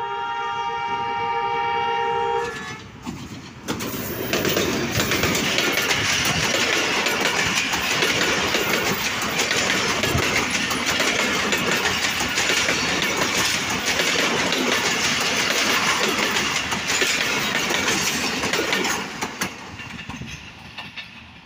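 A diesel locomotive's horn sounds a steady multi-tone blast that cuts off about two and a half seconds in. Then a passenger train passes close by, a loud rumble with rapid wheel clacks over the rail joints as the coaches go by, fading away near the end.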